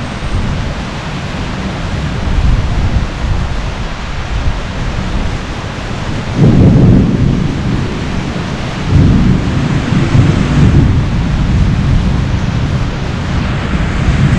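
Heavy rain pouring steadily in a thunderstorm, with thunder rumbling low underneath; the rumble swells louder about six seconds in and again about nine seconds in.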